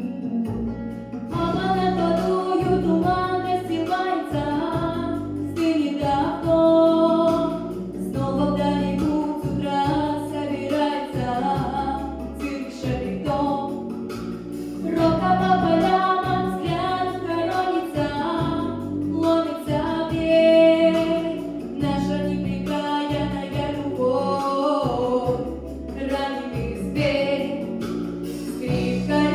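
Female vocalist singing a pop song over an instrumental backing track, her voice coming in about a second in.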